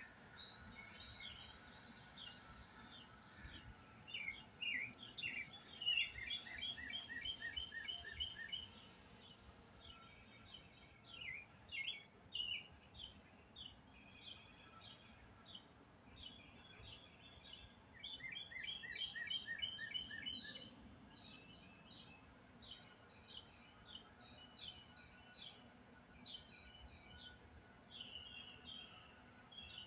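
Songbirds chirping and singing, with two louder runs of fast, evenly spaced repeated notes, one about six seconds in and one about eighteen seconds in.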